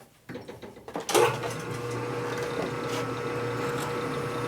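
A machine tool's electric motor switched on about a second in, then running steadily with a low hum and a constant whine, ahead of drilling a 1/4-inch hole through a steel nut.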